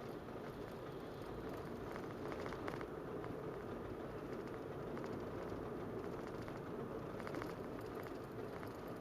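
Inside a 2015 Toyota Prius C: a steady drone, with short runs of rapid rattling ticks about two seconds in and again near the end. This is the abnormal noise that the owner records alongside the car's shaking.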